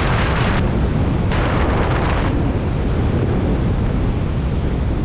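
Airflow buffeting the microphone during a paraglider flight: a constant heavy low rumble, with two stronger rushes of hiss in the first two seconds.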